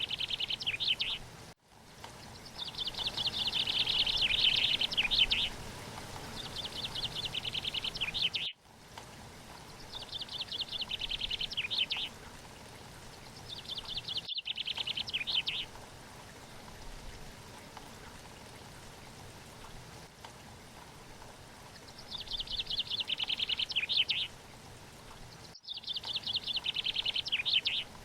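A bird singing fast, high trills in repeated bursts of one to three seconds, with a long pause near the middle.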